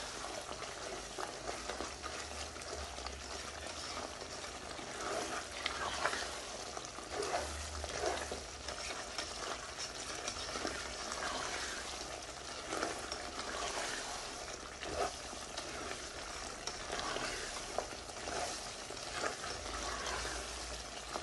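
Lamb karahi frying in oil on high heat in a steel karahi, a steady sizzle, with a spoon stirring and scraping the pan now and then.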